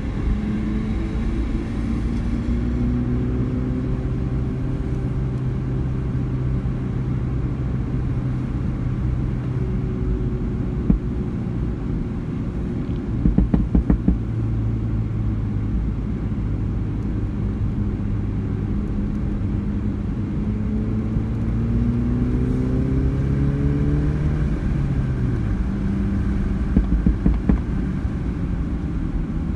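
Mini Cooper engine running at a steady, moderate pace, heard from inside the cabin over road and tyre noise. About two-thirds of the way in the engine note climbs gradually and then drops quickly. There is a brief rattle about halfway and another near the end.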